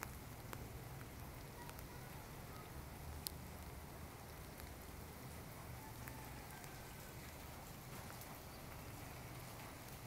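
Steady rain falling on a flat concrete rooftop, a soft even hiss with a few sharp drop ticks and a low rumble underneath.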